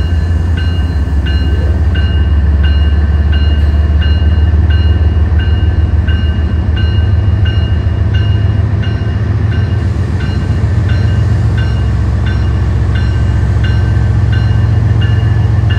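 Diesel locomotives of a BNSF freight train running steadily with a deep engine rumble as they approach. Over the rumble a bell rings evenly, about twice a second.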